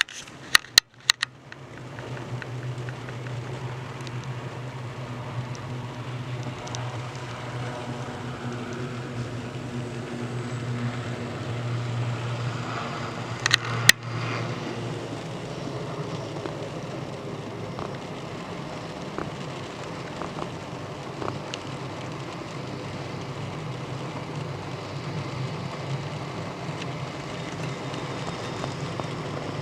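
UH-60 Black Hawk helicopter running, a steady low hum over a continuous whooshing noise. The low hum fades about halfway through while the noise carries on, with a sharp crack about 14 seconds in.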